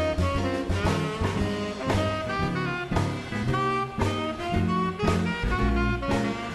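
Swing jazz band playing an instrumental break: a saxophone and brass melody line over steady upright-bass notes, drums and guitar.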